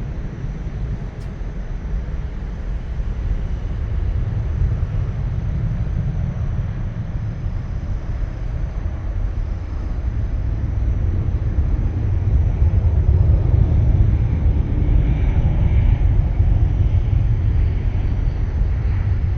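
Airplane engine rumble, a steady low drone that grows louder about halfway through as the aircraft approaches.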